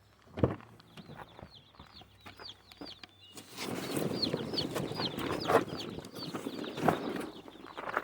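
A box of day-old meat chicks peeping: many short, high cheeps that fall in pitch, one after another. From about three and a half seconds in a louder rustling, scraping noise joins them, with a knock near the start and another near the end.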